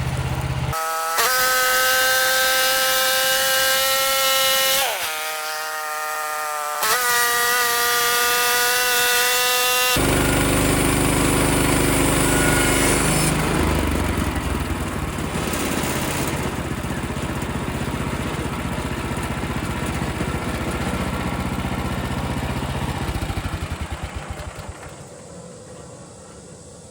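Portable bandsaw mill's gas engine revving up to full throttle with a high whine while sawing a white pine log into boards; the pitch dips for about two seconds midway, then rises again. About ten seconds in, the whine gives way to a rougher, lower running sound, which slows and fades near the end.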